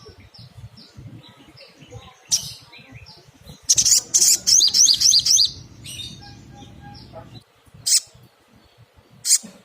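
Little spiderhunter (sogok ontong) calling: a string of short, sharp high chips, broken about four seconds in by a loud, rapid run of rising notes, with a few single loud notes near the end.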